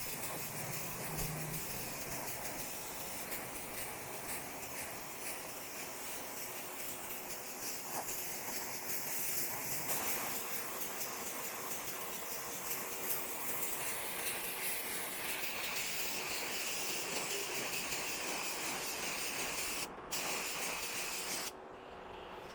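Steady hiss of paint spraying. It breaks off for a moment and then stops shortly before the end.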